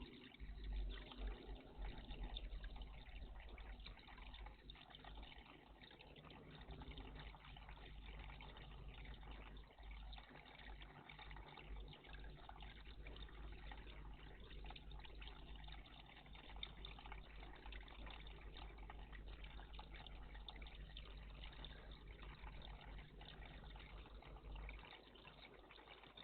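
Faint, steady trickling and splashing of water in a garden bird bath, over a low hum that stops near the end.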